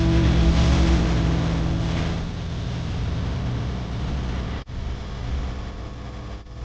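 Mahindra Yuvo Tech Plus 405 DI tractor's three-cylinder diesel engine running steadily, with a brief break about four and a half seconds in.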